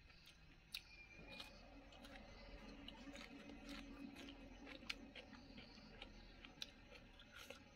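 Faint chewing of food in the mouth, with many short, scattered clicks and small crunches.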